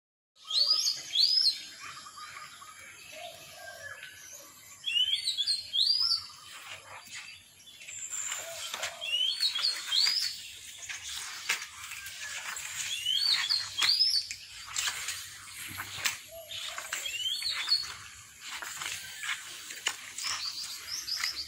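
Birds singing outdoors: one bird repeats a short phrase of quick, high, rising whistled notes every few seconds, with other chirps in between.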